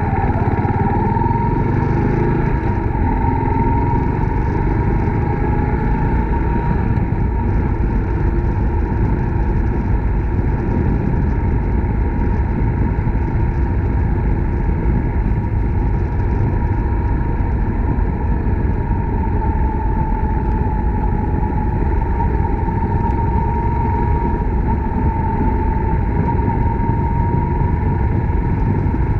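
Suzuki Grass Tracker Big Boy's 250 cc single-cylinder engine running steadily while riding, with wind rushing over the microphone.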